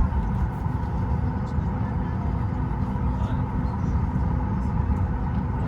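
Steady low rumble with a constant hum inside the cabin of a Ryanair Boeing 737 MAX 8, from its engines and air conditioning running on the ground.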